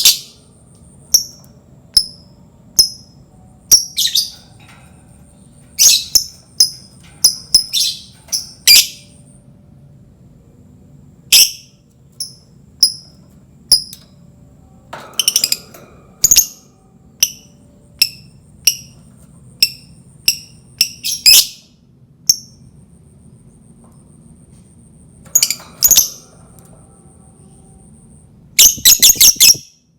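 Lovebird giving short, shrill chirps, one or two at a time with irregular gaps, then a quick rapid run of calls just before the end.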